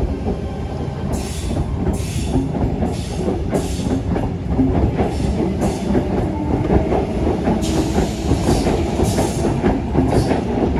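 Sydney Trains Tangara double-deck electric train rolling past the platform. Steady wheel-on-rail rumble with regular clacks and swishes as the bogies pass over the rail joints, coming more often toward the end.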